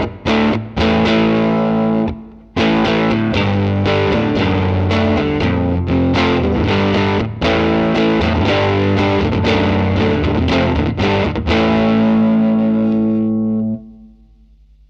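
Electric guitar played through a Line 6 Helix amp-and-cab model with a distorted tone: choppy chord strokes, then a run of chords ending on a held chord. The chord is muted near the end, leaving a faint steady hum.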